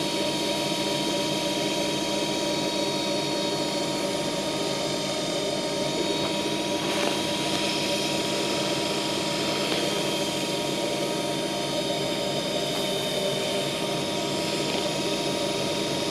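Woodturning lathe running steadily, its motor giving a constant whine.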